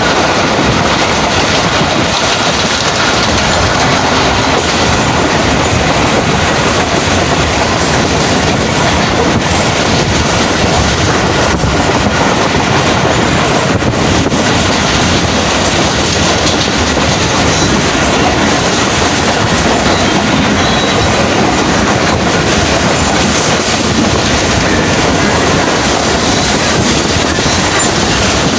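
Karachi Circular Railway passenger train running along the track: a steady, loud rumble of wheels on rails, heard from on board.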